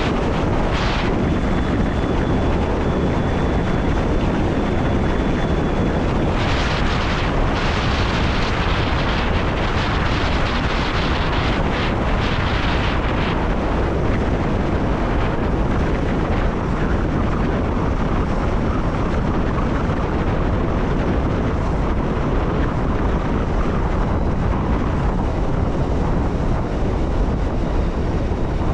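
Electric passenger train running along the line, heard from the driver's cab: a steady deep rumble and rushing noise. A faint high whine comes for a few seconds near the start, and the hiss surges louder twice in the first half.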